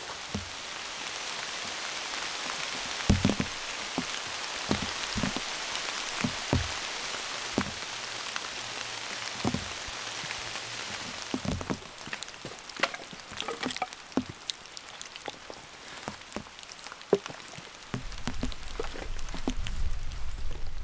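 Rain falling, a steady patter with many single heavy drops landing sharply. About halfway the patter thins out to scattered drips, and a low rumble starts near the end.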